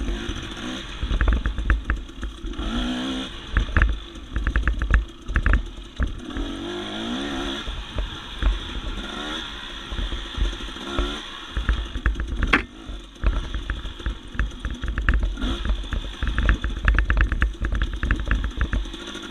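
Dirt bike engine revving up and down over and over as it is ridden through tight, technical single track, with clatter and knocks from the bike bouncing over the trail and a sharp knock about two-thirds of the way through.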